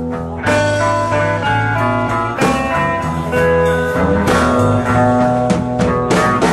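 Live Chicago blues band playing an instrumental passage between sung lines: electric guitar over bass and drums.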